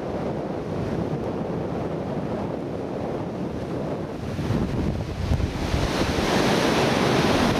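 Pacific Ocean surf breaking on a beach, with wind buffeting the microphone; the wash of a breaking wave swells louder from about halfway through.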